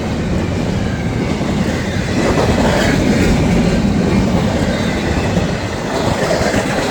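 Freight train cars rolling past at close range: a steady wheel-on-rail rumble with clickety-clack over the rail joints, swelling slightly in the middle.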